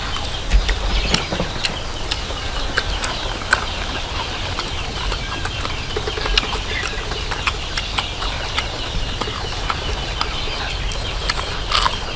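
Crunching and chewing of crispy deep-fried chicken hearts: many small, irregular crackling clicks over a steady low rumble.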